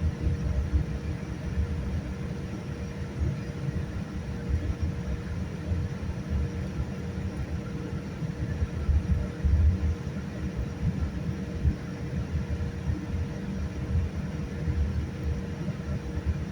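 Boeing 787-9 airliner cabin noise: a steady low rumble with a faint steady hum above it, heard from inside the cabin.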